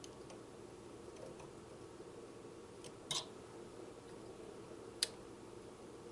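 Hands handling the unplugged GE box fan motor while prodding its loose shaded-pole coil: a few faint clicks, a short scrape about three seconds in and one sharp click about five seconds in, over a low steady hiss.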